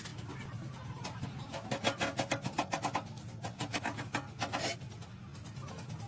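Fast, even scraping or rasping strokes of hand-tool work on metal parts, about ten a second, starting about a second and a half in and stopping near the end, over a steady low hum.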